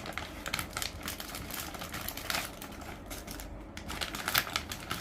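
A Lego set's box being opened and its contents handled: a run of irregular clicks and rustles.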